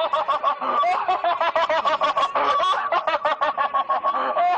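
High-pitched cackling in a fast, even string of short pulses, about seven a second, kept up without a break.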